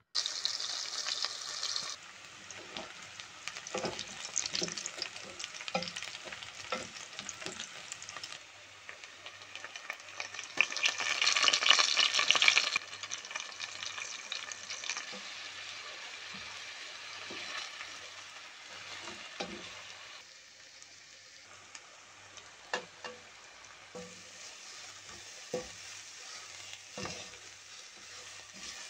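Hot oil sizzling in a pot as sliced onions and spices fry, with a louder surge of sizzling for a couple of seconds near the middle. A wooden spatula stirring and knocking against the pan is heard throughout.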